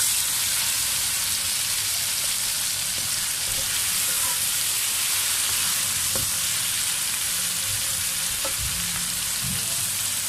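Sliced tomatoes and onions with ground spices frying in hot oil in a pan, a steady sizzle, with a few faint knocks in the second half.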